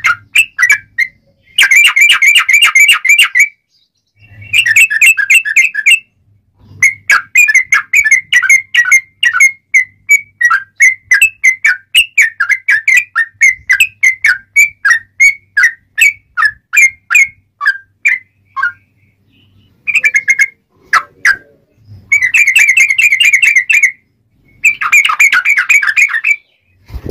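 Sooty-headed bulbul (trucuk) singing in a loud, close recording. Fast chattering bursts of notes alternate with a long run of separate clear notes, with short pauses between phrases.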